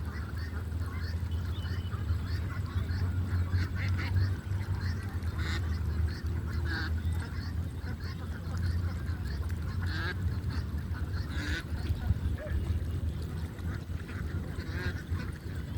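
Several birds calling over and over in short, sharp notes, over a steady low rumble.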